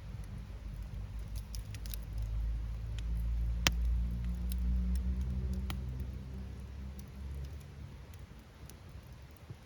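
Wood campfire crackling, firewood popping in scattered sharp snaps with one louder pop a little over a third of the way in. A low rumble swells through the middle and fades.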